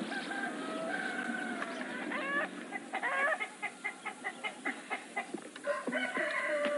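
Chickens: a rooster crowing with long drawn-out calls, and a rapid run of clucks at about four a second in the middle, then another long crow near the end.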